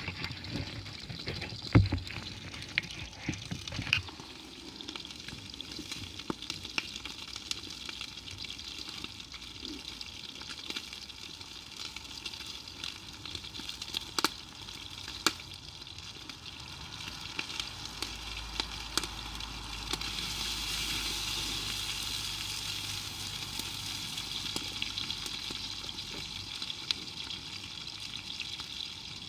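Food sizzling in a pan over a campfire, a steady frying hiss with scattered crackles and a few knocks in the first seconds. The sizzle gets louder about two-thirds of the way through.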